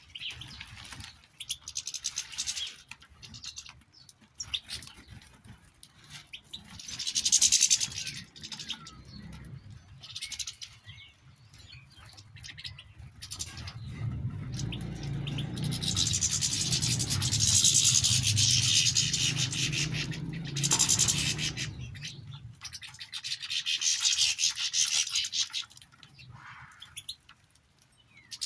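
Faint chirps of small cage birds amid several bouts of dry rustling and hiss, the longest and loudest from about halfway through.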